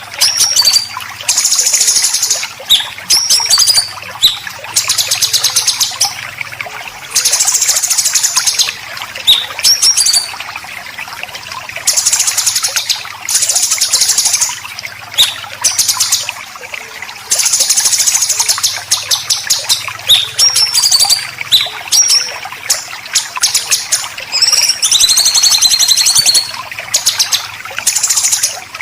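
Songbird besetan: repeated harsh, rapid rattling bursts, each about one to two seconds long, alternating with short clear whistled notes and slurred chirps, in the manner of a white-rumped shama or greater green leafbird giving aggressive rasping calls.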